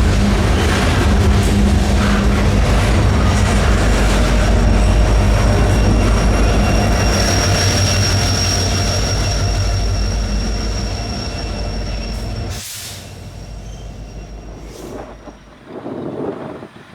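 Freight train rolling past close by: the rumble of cars over the rails with a high, steady wheel squeal, ending suddenly about twelve seconds in as the train clears, leaving gusty wind on the microphone.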